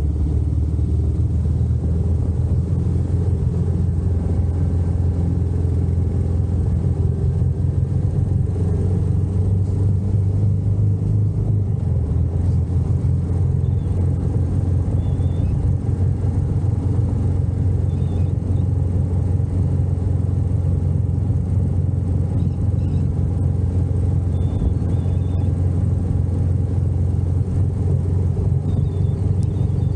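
Royal Enfield Meteor 350's single-cylinder engine running steadily while the motorcycle is ridden, a continuous low rumble. Its note dips slightly about twelve seconds in.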